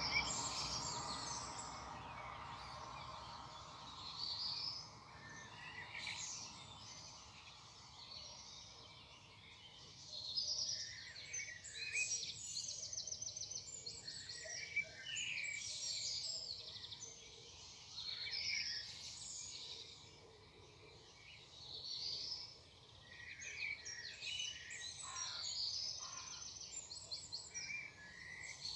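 Several wild birds singing in a morning chorus: many short, varied, overlapping phrases and trills, some rapid and buzzy. A low rumble fades away over the first few seconds.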